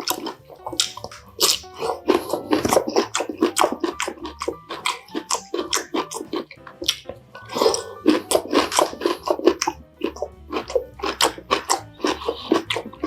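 Close-miked chewing and crunching of crispy pan-fried chive pancake, a dense run of quick crackles and wet mouth sounds.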